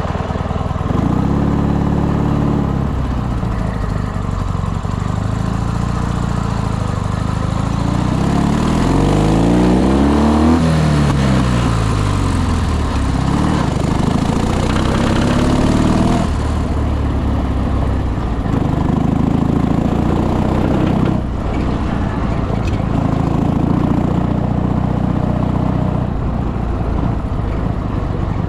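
Ural motorcycle's boxer-twin engine running, its pitch sweeping up and down several times near the middle as the throttle changes, then settling to a steadier note.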